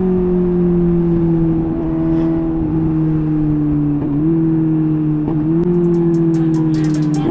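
Suzuki GSR 750 inline-four running through a MIVV Double Gun exhaust. Its note sinks slowly as the bike rolls off, with small steps up in pitch about four and five and a half seconds in.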